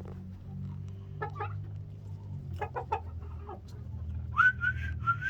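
Chickens clucking in short calls over a low steady hum. About four seconds in, one bird starts a long, steady high-pitched call.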